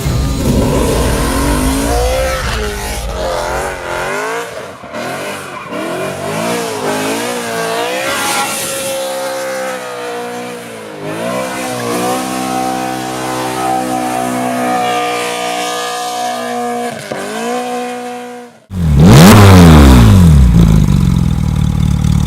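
BMW M3 E92's V8 through an Armytrix exhaust, revving repeatedly and then held at steady high revs for several seconds during a burnout. It cuts off suddenly near the end and comes back louder, with the revs falling.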